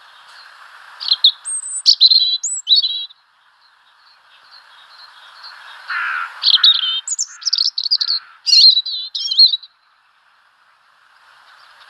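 Small bird chirping in two bursts of short, high, sliding notes, the first about a second in and a longer one from about six to nine and a half seconds, each preceded by a faint hiss that swells up.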